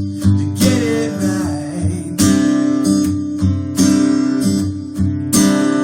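Acoustic guitar strumming chords steadily as accompaniment to a song, in a gap between sung lines.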